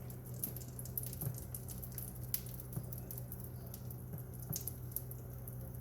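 Pancake batter sizzling on a hot, oiled griddle: irregular small crackles and pops over a steady low hum.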